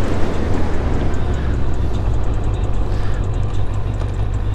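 Motorcycle engine running steadily at low revs with wind rushing over the microphone while riding, easing off a little partway through.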